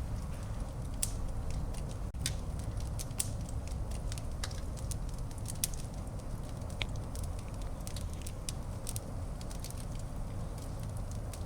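Wood fire burning in a fireplace: irregular sharp crackles and pops of varying loudness over a steady low rumble of the flames.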